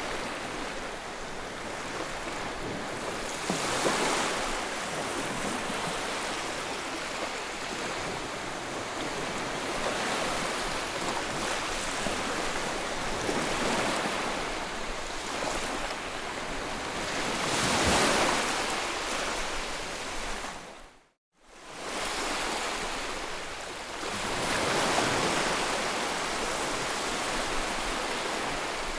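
Ocean surf: waves breaking and washing in, the rush swelling and easing every few seconds. About two-thirds of the way through, the sound cuts out to silence for half a second, then returns.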